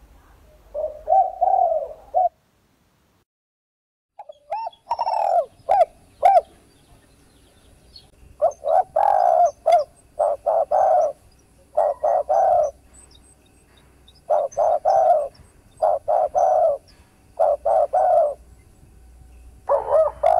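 Spotted dove cooing: short phrases of several low coos repeated every second or two, with a brief dead-silent break about two seconds in.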